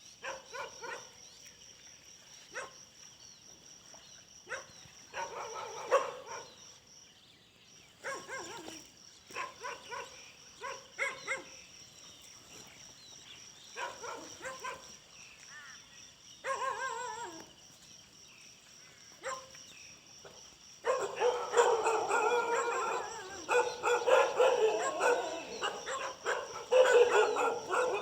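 Dogs barking in short, scattered bouts, then about two-thirds of the way in several dogs barking together, louder and without a break.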